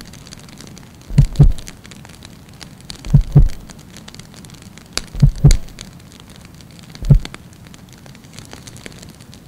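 Pairs of deep thuds about a quarter second apart, repeating roughly every two seconds like a slow heartbeat, with a single thud near the end, over faint crackling.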